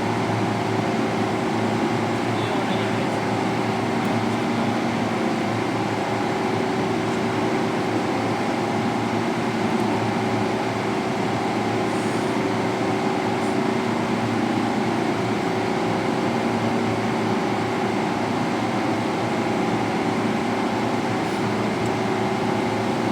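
Makute pressure washer running steadily, its motor giving a constant hum with a few steady tones over an even rushing noise.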